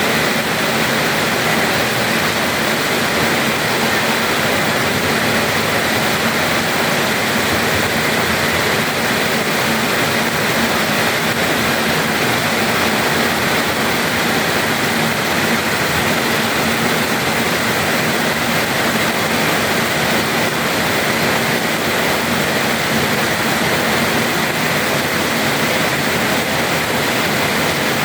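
Heavy rain falling hard: a dense, steady hiss that does not let up.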